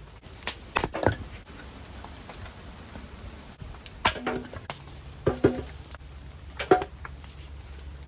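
Sharp wooden knocks, of timber being struck or set down: three about half a second to a second in, then more near four, five and a half and near seven seconds, some with a short ringing after, over a steady low rumble.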